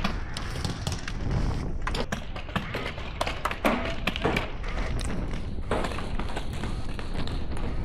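Wind rumbling on the microphone, with a scattering of sharp clicks and pops.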